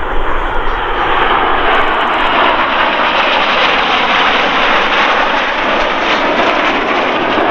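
Jet noise from Red Arrows BAE Hawk T1s, whose single Adour turbofans make a loud, steady rush that swells slightly about a second in and holds as the formation flies the corkscrew.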